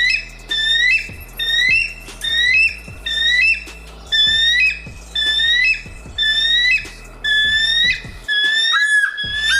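A bird calling over and over, about one clear, high, squawking call a second, each call rising briefly and then holding its pitch.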